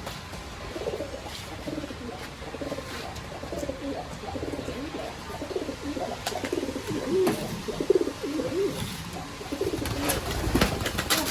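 Several domestic pigeons cooing, overlapping low warbling coos throughout, with a few sharp clicks and knocks, most of them near the end.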